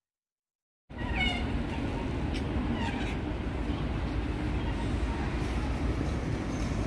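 Steady outdoor road and wind noise from a ride on the move, starting abruptly after about a second of silence, with a few short high rising squeals about a second in and again around two to three seconds in.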